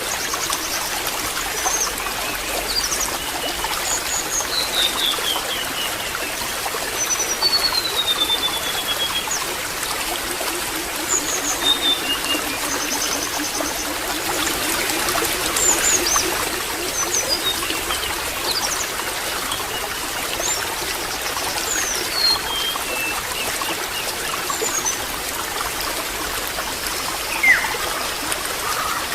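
Water trickling steadily, with small birds chirping and whistling in short calls over it throughout.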